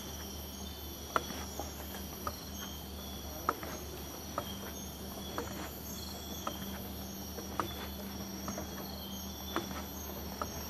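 Tropical rainforest insect chorus: steady, high-pitched buzzing and trilling from many insects at once, with a slight pulse. Short sharp clicks are scattered through it about once a second.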